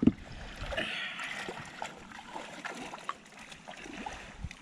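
Shallow water splashing and trickling, with a short low knock right at the start and small drips and clicks after it.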